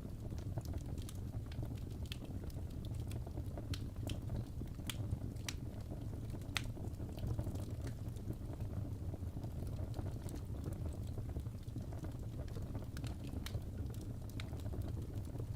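Wood fire burning in a fireplace: a steady low rumble of flame with irregular sharp crackles and pops throughout.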